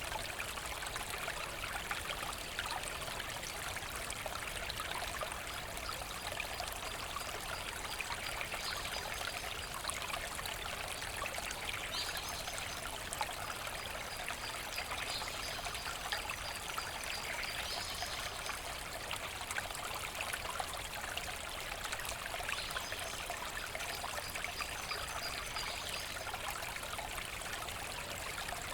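Forest brook running steadily, an even, unbroken rush of flowing water.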